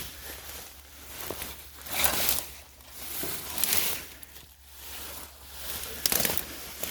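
A few slow, irregular footsteps rustling through undergrowth.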